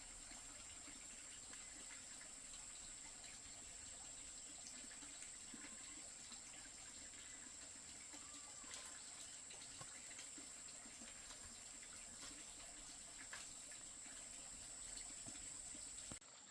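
Faint, steady rushing water with a thin high-pitched tone held over it; both cut off abruptly just before the end.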